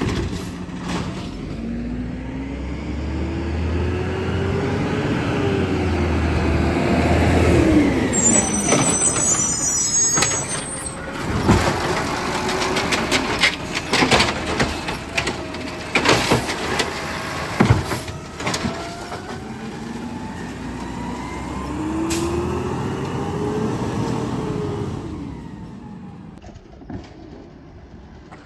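Garbage truck working: its engine pitch rises and falls twice, with a brief high squeal and a run of loud clanks and bangs in between.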